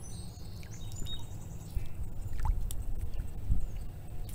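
Water sloshing and lapping around a kayak, over a steady low rumble, with a few scattered knocks and some short, thin, high chirps.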